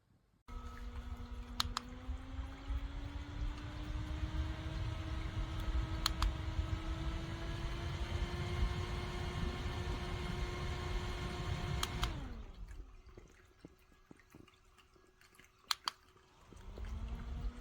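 Small battery-powered handheld fan's motor whirring, starting with a click and rising in pitch as it spins up, with more sharp button clicks while it runs and a low rumble of air on the microphone. About twelve seconds in it is switched off and winds down with a falling pitch; after another click it starts up again near the end.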